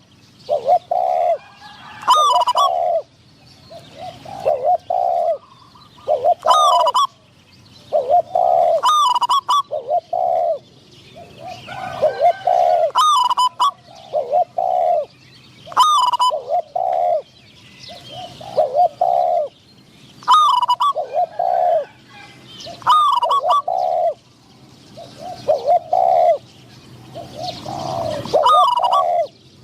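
Spotted doves cooing, phrase after phrase about every two seconds, many phrases opening with a sharper, higher note before the lower rolling coos.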